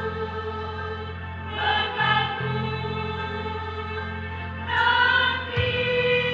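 School choir singing long held notes over a steady instrumental accompaniment, swelling louder twice.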